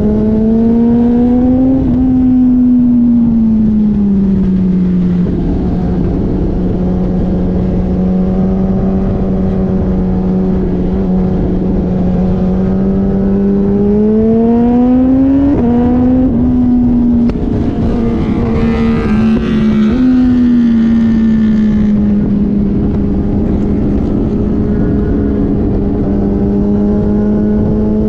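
Motorcycle engine running hard on a race track over a steady rush of noise. Its pitch climbs under throttle and drops back several times as it shifts or slows.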